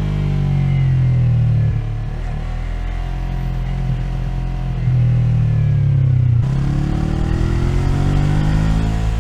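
Onboard sound of a 2020 Yamaha MT-03's parallel-twin engine, running under load in traffic. Its pitch falls gradually as the bike slows; about two-thirds of the way through the sound changes sharply and the engine picks up again, pitch rising as it accelerates.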